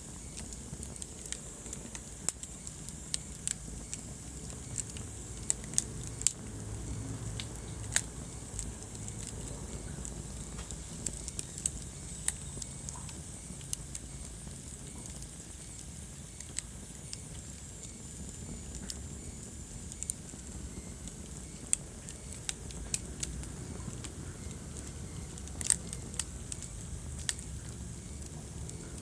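Wood fire crackling in a fireplace: irregular sharp pops and snaps over a steady low rumble of the burning logs, with the loudest snaps about eight seconds in and late on.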